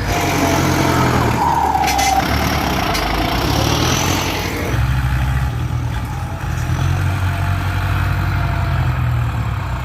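Ford 6610 tractor's four-cylinder diesel engine running steadily while working a paddy field. The rougher, noisier part of its sound eases about halfway through.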